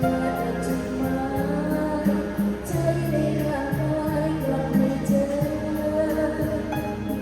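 A woman singing a Thai song, holding long wavering notes, over instrumental accompaniment.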